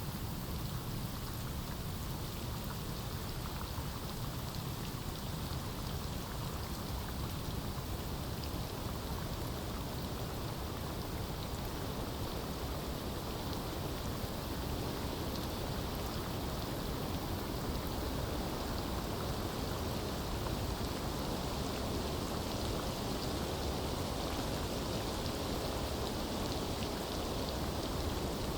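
Steady rain falling on forest foliage, a continuous even patter of raindrops.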